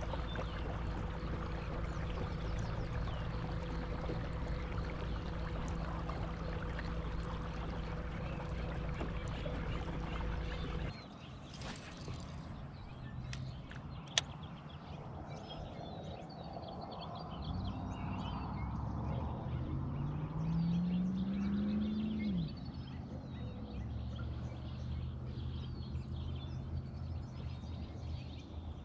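Kayak's electric trolling motor humming steadily, cutting off suddenly about eleven seconds in. Later a motor hum comes back, rises in pitch for a few seconds, then falls away sharply.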